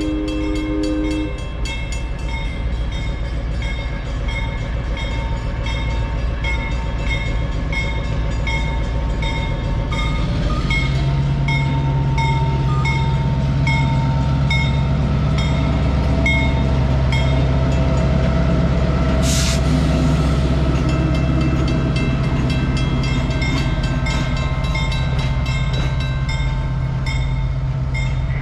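Diesel-hauled passenger train passing a grade crossing: a horn chord cuts off about a second in, the crossing signal bell dings steadily about twice a second, and the coaches roll by. From about ten seconds in the locomotive's diesel engine drone grows loud, with one short hiss a little past the middle.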